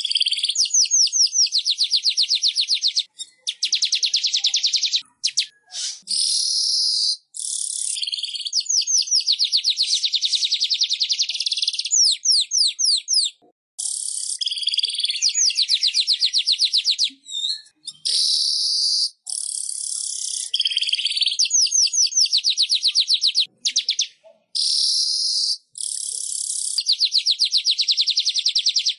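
Manyar (weaver bird) song, a tutor recording: fast trills of evenly repeated high notes, about ten a second, alternating with harsh hissing phrases, in bursts of one to three seconds with short gaps.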